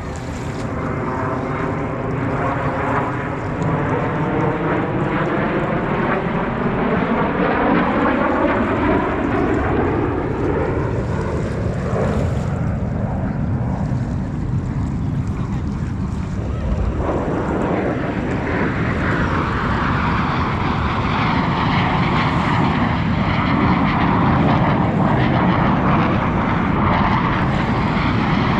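Blue Angels aircraft passing overhead. The engine roar swells and its pitch sweeps steadily downward through the first dozen seconds. A second approach then builds, rising in pitch and getting louder toward the end.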